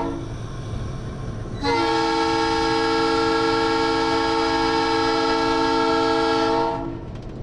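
Locomotive air horn sounding a steady multi-note chord: a short blast that ends just after the start, then one long blast of about five seconds that cuts off near the end. The short-then-long pattern fits the close of a grade-crossing horn signal.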